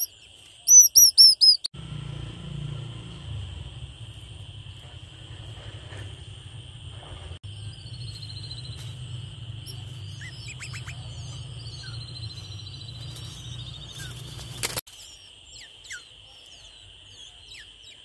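Small birds chirping: a quick run of five loud, short chirps about a second in, then fainter scattered chirps over a steady high-pitched drone. A low rumble underlies most of it and cuts off with a click near the end.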